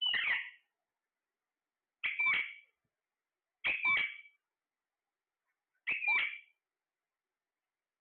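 A pet parrot calling four times, about two seconds apart; each call lasts about half a second, starting high and sharp and dropping in pitch.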